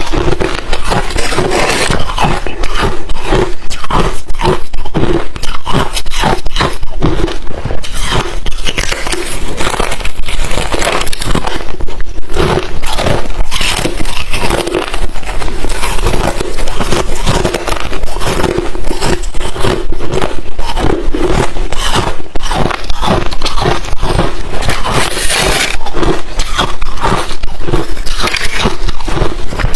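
Close-miked chewing of crushed refrozen ice chips: a loud, continuous run of sharp crunches and crackles as the thin ice breaks between the teeth.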